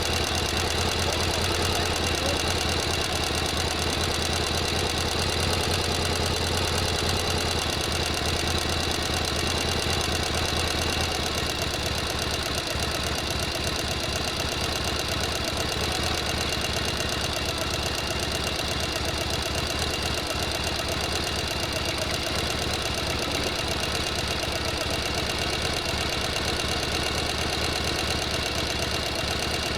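Sewing machine running continuously, a rapid, even stitching rhythm over a low motor hum. The hum eases a little about eleven seconds in.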